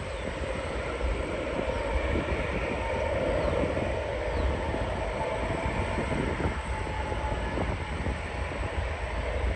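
Jet airliner passing low on approach, a steady rushing engine noise with a faint whine that swells a little about three seconds in. Wind buffets the microphone with a gusty low rumble.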